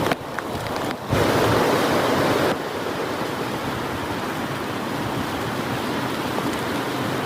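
Heavy rain pouring as a steady, even hiss, louder for about a second and a half starting a second in, then settling into an even downpour.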